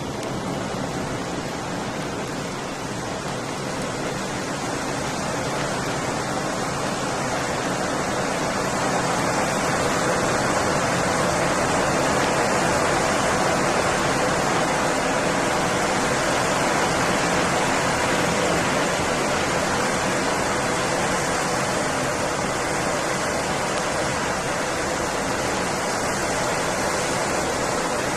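A fast vehicle running steadily at constant speed: an even rushing noise with a faint steady hum in it, growing a little louder a few seconds in and then holding.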